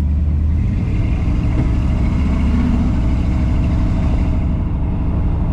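A 1953 Ford F100's 351 Windsor V8 running steadily while the truck is driven, a constant low drone.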